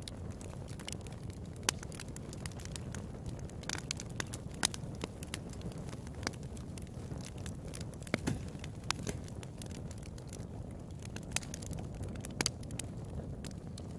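Wood fire burning in a fireplace: a steady low rush of flames with frequent sharp pops and snaps, a few of them louder.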